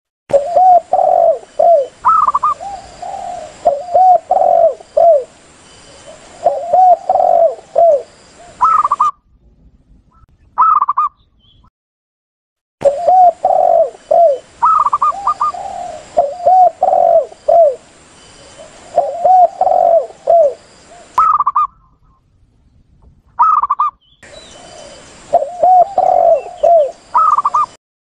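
Spotted doves and zebra doves cooing in repeated phrases of several short coos, with brief pauses between phrases and two longer breaks, over a faint steady hiss: a recorded lure call for dove hunting.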